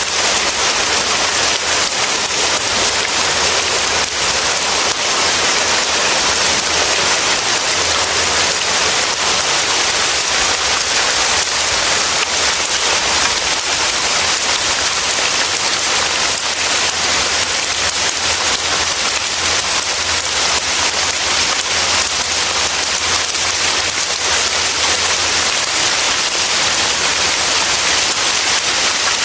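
Steady, heavy rain falling and pattering on surfaces in a forest, as a continuous even hiss.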